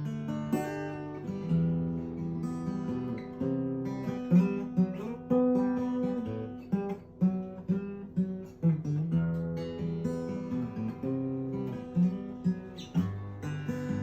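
Acoustic guitar playing the instrumental introduction to a song, chords picked with notes starting one after another in a steady flow.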